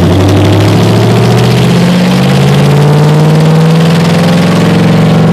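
1957 Chevrolet Bel Air's small-block V8 running straight off the headers with no exhaust pipes, extremely loud inside the cabin. Its pitch climbs for about three seconds as the car accelerates, then holds steady.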